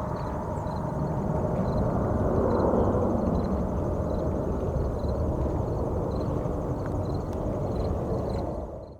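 Jet airliner's engines rumbling steadily, swelling a little two to three seconds in, then fading out quickly near the end.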